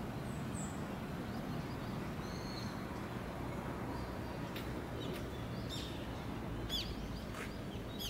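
Small wild birds giving short high chirps, a few scattered and then several in quick succession near the end, over a steady low outdoor rumble.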